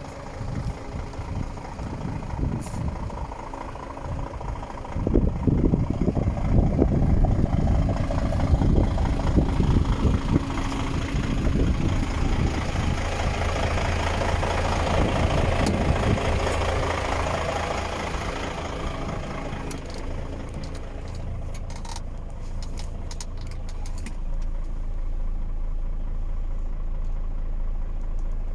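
The DAF XF 460's six-cylinder diesel engine is running. It gets louder about five seconds in and later settles to a steady idle, with a few sharp clicks partway through.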